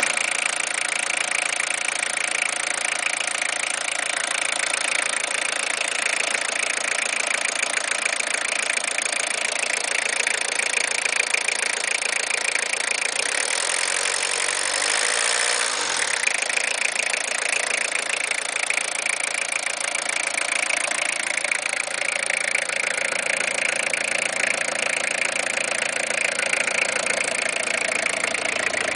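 Citroën XM 2.1 TD12 turbodiesel engine, a 12-valve four-cylinder, idling steadily. About halfway through it is revved once, the pitch rising over a couple of seconds and then falling back to idle.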